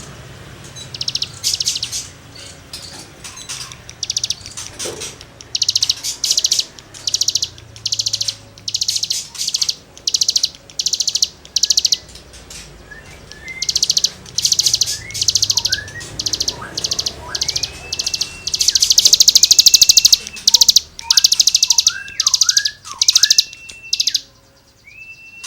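Cigun songbird singing hard: a fast string of short, harsh, scraping notes, about two a second. Partway through, clear whistled notes join in that rise and hold, with quick downward slurs between them.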